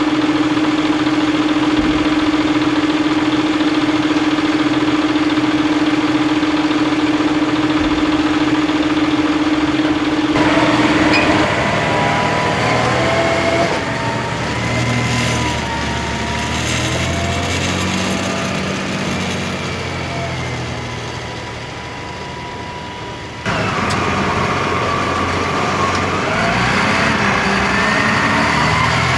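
John Deere 7230R tractor's six-cylinder diesel engine running hard: it holds a steady pitch for about ten seconds, then its pitch rises and falls as the load and revs change. The sound changes abruptly once near the end.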